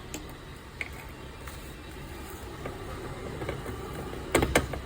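Washing machine running with a low steady motor hum, a few faint ticks, and two or three sharp knocks near the end.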